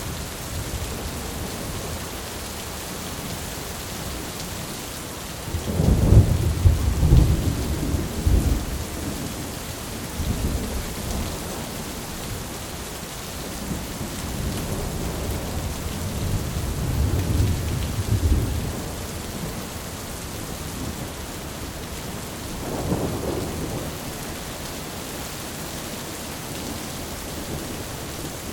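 Thunderstorm: steady rain with rolling rumbles of thunder. The loudest rumble comes about six seconds in and lasts a couple of seconds, a weaker one rolls past the middle, and a short one comes near the end.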